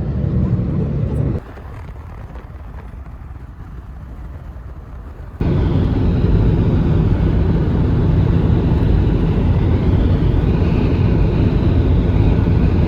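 Steady road and engine rumble inside a moving car's cabin. It drops much quieter about a second and a half in, then comes back at full level about four seconds later.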